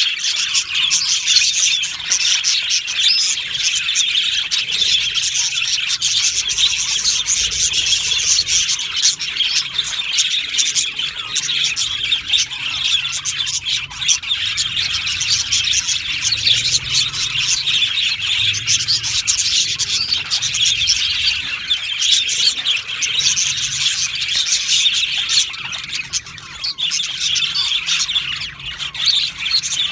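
A colony of budgerigars chattering and chirping, many birds at once in a dense, continuous twitter that dips briefly near the end.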